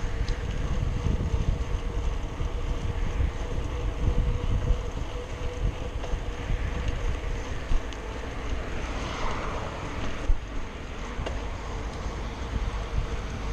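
Wind buffeting the microphone on a moving bicycle: a steady low rumble with a faint steady hum, and a couple of brief knocks near the middle.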